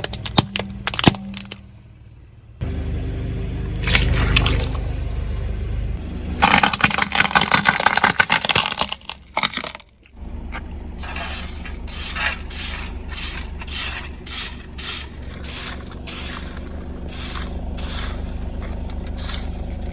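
Car tyre rolling over and crushing brittle objects: crackling, snapping and crunching over a low engine hum. There is a dense stretch of crackling in the middle, then a run of sharp cracks about every half second through the second half.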